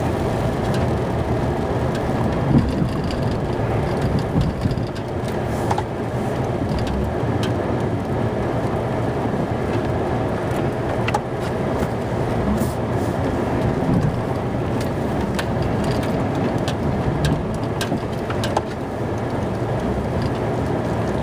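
Snow-plow truck's engine running steadily, with a few light clicks and knocks scattered through.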